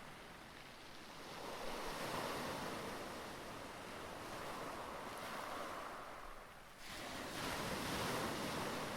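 Rough sea: waves surging with wind. The rush swells twice, and about seven seconds in it dips and then abruptly comes back.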